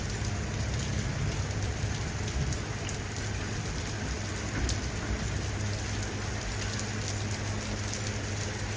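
Steady rain falling, with scattered drop ticks over a steady low hum.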